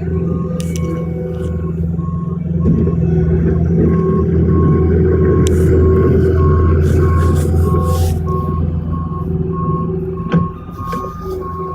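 Vehicle reversing alarm beeping steadily, a bit under two beeps a second, over a running engine's low hum; the engine sound grows louder and rougher for a few seconds in the middle.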